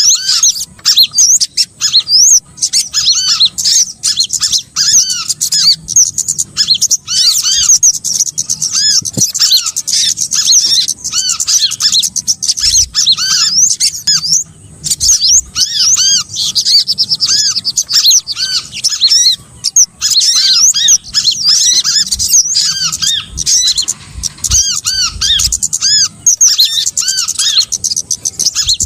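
Bird-lure recording of small songbirds calling: a dense, unbroken stream of short, arched, high chirps and squeaky notes from several birds overlapping.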